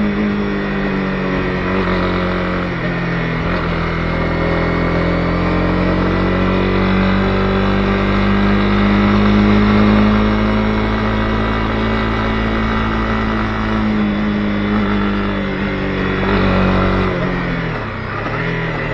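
Honda CB250R single-cylinder engine pulling the motorcycle along the road. Its note climbs slowly, holds steady, then drops briefly near the end as the throttle eases, and rises again.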